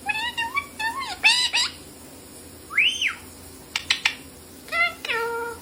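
A pet parrot calling: a quick run of short chirps and squawks, an arching whistle about three seconds in, a few sharp clicks, then a falling call that ends on a held note.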